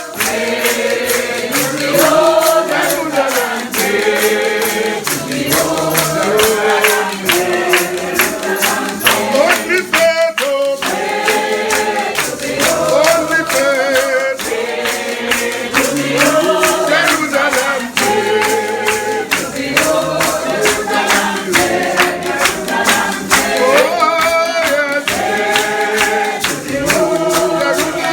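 A congregation singing a hymn together, with wavering held notes over a steady percussive beat.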